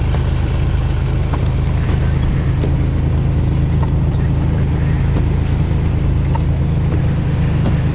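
Steady low drone of a car's engine and tyres heard from inside the cabin while driving on unplowed snow.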